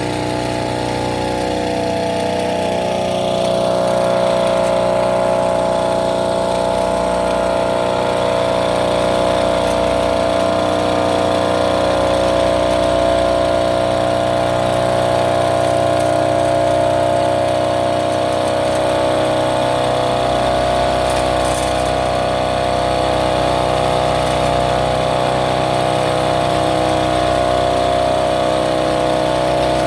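Small engine of an agricultural rail monorail running steadily. Its pitch falls and settles over the first few seconds, then holds even.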